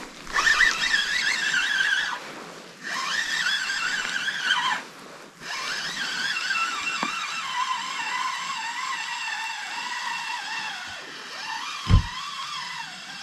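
Fishing reel being cranked to bring in a hooked fish, giving a whine that rises and falls with the winding in three stretches. A short dull thump comes near the end.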